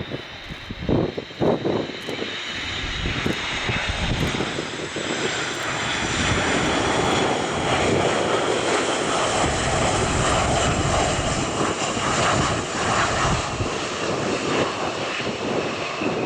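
Boeing KC-135R Stratotanker's four CFM56 (F108) turbofan engines on landing: a jet roar with a high fan whine that swells over the first several seconds, then holds steady, with a whine falling slowly near the end. A few low buffeting thumps come in the first two seconds.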